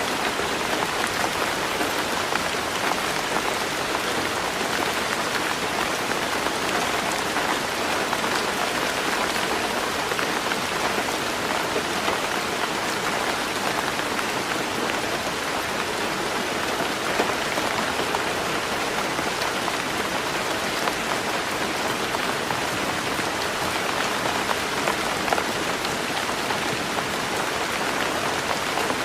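Heavy rain drumming steadily on a tin roof, a dense, even patter with a few louder drops standing out now and then.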